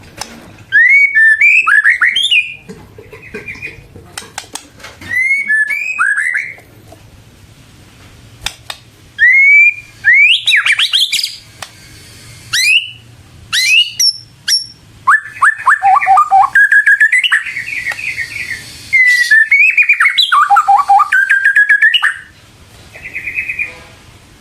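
White-rumped shama (murai batu) singing: loud phrases of rapid whistled and swept notes, broken by short pauses of a second or two.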